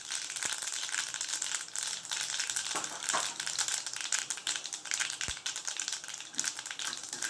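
Mustard seeds and urad dal sizzling and crackling in hot oil in a kadai, the tempering stage of a poriyal: a steady hiss dotted with small pops.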